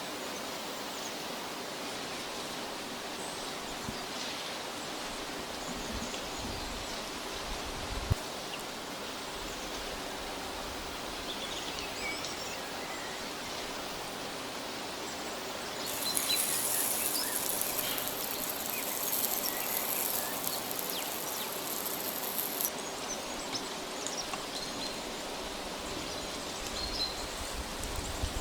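Forest ambience: a steady background hush with faint, scattered bird chirps. There is a single sharp click about a third of the way in, and a high hiss from a little past halfway that cuts off about a quarter-minute later.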